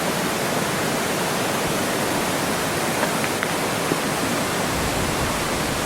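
Steady rush of flowing water, an even hiss with little low rumble, from a mountain stream or waterfall.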